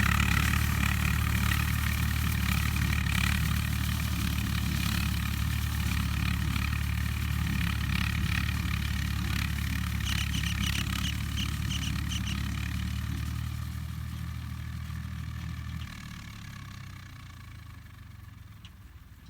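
Swaraj 855 tractor's diesel engine running steadily, then fading out gradually over the last few seconds.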